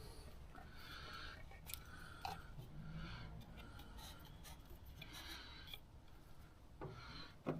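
Faint rubbing and scraping in short patches, with a few light clicks, from hand work on the top of a Mercedes W115 engine as hoses are worked off the valve cover.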